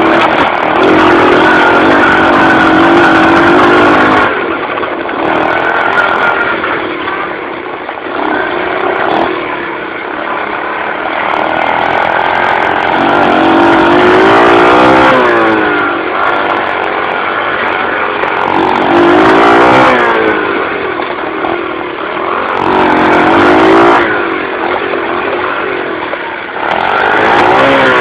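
Dirt bike engine being ridden hard on trails, revving up and dropping back over and over as the rider works the throttle and gears. Gusts of rushing hiss come and go on top.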